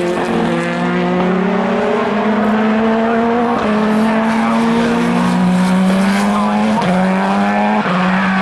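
Race car engines accelerating: the engine pitch climbs steadily and drops sharply at upshifts, about a third of the way in and twice more near the end.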